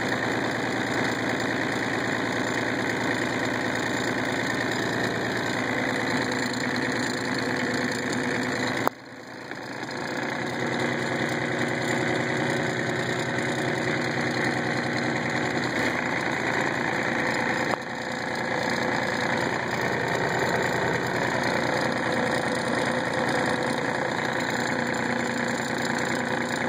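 Kubota tractor diesel engine idling steadily just after a cold start at 18°F with the block heater on, warming up. Twice, about nine and eighteen seconds in, a click comes with a sudden drop in loudness that recovers over a second or two.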